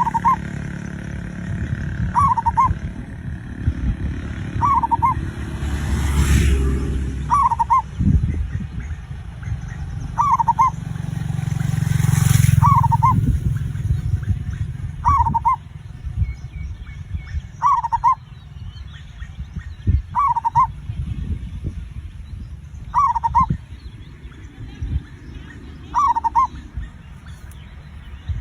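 Zebra dove (perkutut) calling: a short cooing call repeated about every two and a half seconds, over a low background rumble that swells twice.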